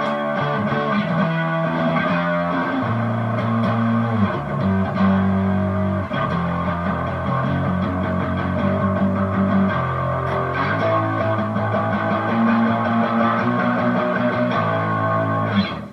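Electric guitar through a Harley Benton American Sound amp-simulator distortion pedal, set to full drive with flat EQ, playing sustained distorted notes and riffs that change pitch every second or so. The playing stops just at the end.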